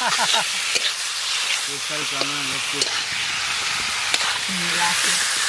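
Spice-coated chicken pieces sizzling in hot oil in an iron kadai while a metal spatula stirs them, its edge clicking and scraping against the pan every so often.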